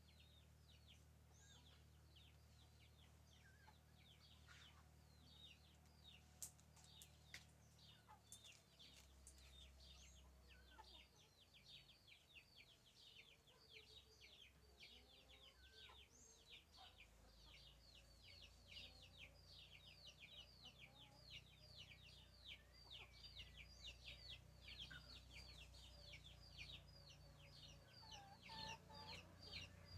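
Chickens calling faintly in a rapid series of short, high, falling peeps that grows busier after about ten seconds, over a low rumble.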